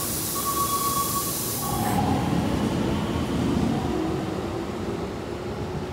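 Keikyu electric train pulling out of the station, its motors and wheels running as it gathers speed. A steady high tone and a hiss are heard over it and stop about two seconds in. The train sound is loudest a few seconds in, then fades as the train moves away.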